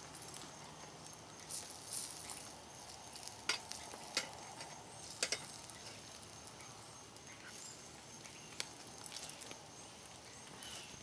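A fry pie frying in butter in a skillet over a Coleman gas stove: a steady sizzle with sharp pops and crackles here and there.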